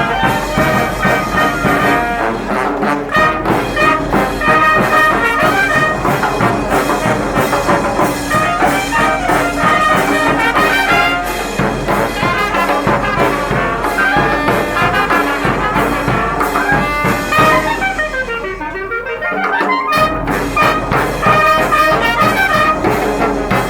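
Brass band playing a Guatemalan procession son, with trumpets and trombones to the fore. Near the end the sound thins out briefly, then the full band comes back.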